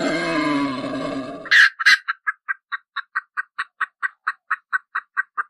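Animal calls: a drawn-out low call with many overtones ends about one and a half seconds in, then two loud sharp calls and a fast, even run of short chirps, about six a second.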